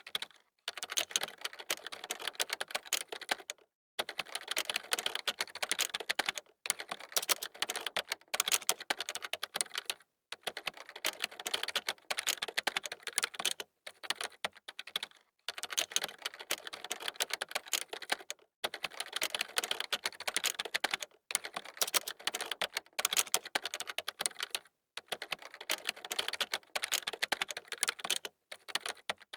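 Fast typing on a computer keyboard: rapid runs of key clicks, broken every few seconds by short pauses.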